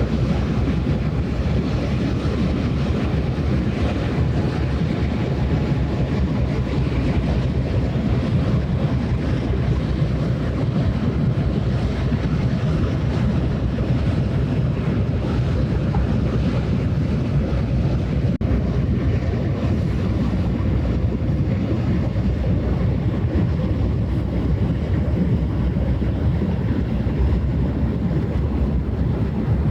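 Steady low rumble of wind on the microphone by the water, with the drone of a passing ship's engine underneath; it holds even throughout, with no distinct events.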